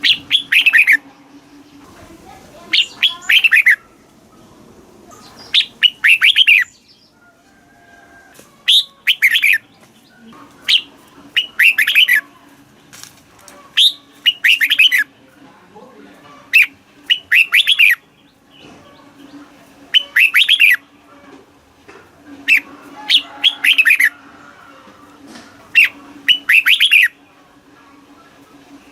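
Red-whiskered bulbul singing short, loud phrases of quick descending whistled notes, repeated about every two to three seconds, over a faint steady low hum.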